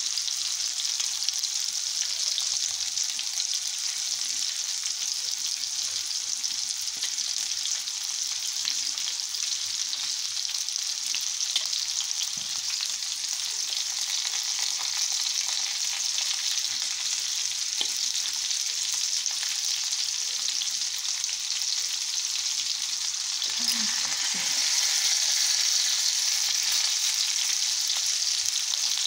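Meatballs and potato wedges frying in oil in a steel pot, a steady sizzle that grows a little louder about three-quarters of the way through.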